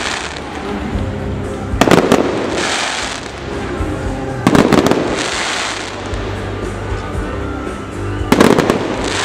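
Aerial fireworks going off in three loud bursts, about two seconds, four and a half seconds and eight and a half seconds in, each a quick cluster of bangs followed by a fading crackling hiss. Music plays steadily underneath.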